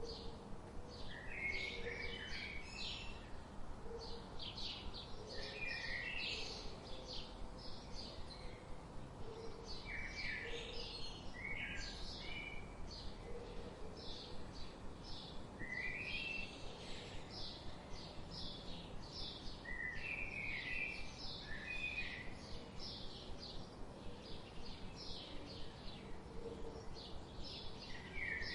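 Many small birds chirping at once, a dense run of quick, high, overlapping chirps and short trills that never lets up, over a faint steady background hiss.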